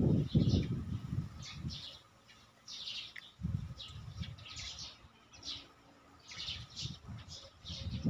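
Small birds chirping, short high chirps coming in quick clusters. A low rumble, loudest in the first two seconds, comes and goes underneath.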